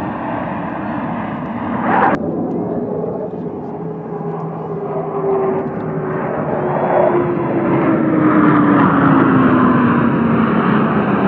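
Airplane flying past, its engine roar growing louder, with a tone that falls slowly in pitch as it goes by. A sharp click about two seconds in.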